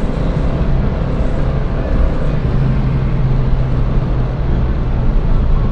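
Yugo 45's small four-cylinder engine running hard under load during a 0–100 km/h acceleration run, a steady low drone mixed with road and wind noise.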